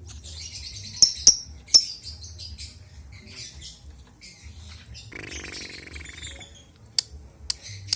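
Lovebird chirping: three loud, sharp, high chirps in the first two seconds, then scattered twittering, a longer lower-pitched call about five seconds in, and more quick sharp chirps near the end.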